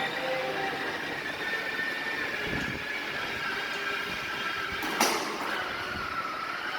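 Battery-powered toy ride-on motorcycle running: electric motor and gear whine with shifting, squealing tones. A short, loud, noisy burst comes about five seconds in.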